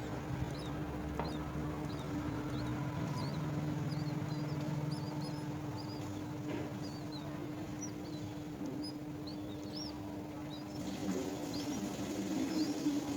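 Birds chirping: many short, high chirps scattered throughout, over a steady low hum.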